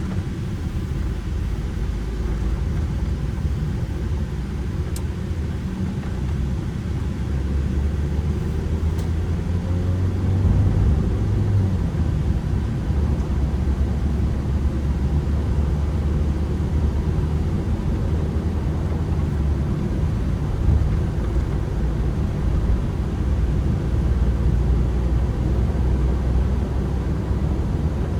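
Ford Transit Connect van's petrol engine running under way with road rumble, its note rising under acceleration about a third of the way in, then dropping away before settling into a steady drone.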